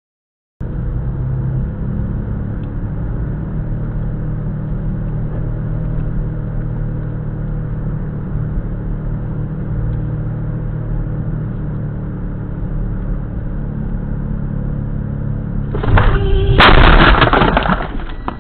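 Steady road and engine rumble inside a moving car, then near the end a sudden loud bang and crunch of a collision.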